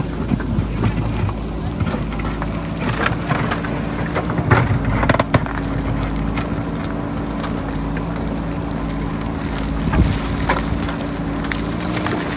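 Diesel engine of a JCB backhoe loader running steadily under load while it digs into rocky hillside, with wind buffeting the microphone. A few sharp knocks of the bucket against rock cut through, a cluster about three to five seconds in and another near ten seconds.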